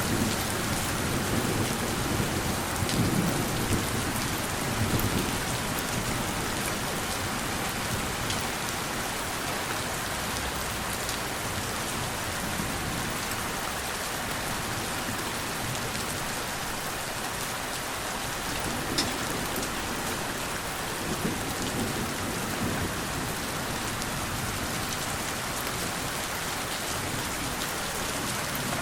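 Steady rain falling, an even hiss of drops. Low rumbles of thunder roll through in the first few seconds and again about two-thirds of the way in.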